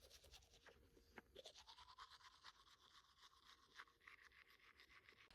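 Faint toothbrush scrubbing teeth in quick, rapid back-and-forth strokes.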